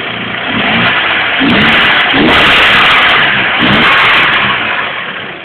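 Volkswagen Golf 3 GTI 16V's 2.0-litre 16-valve four-cylinder engine, just repaired, being revved from idle in several quick throttle blips, then settling back toward idle near the end.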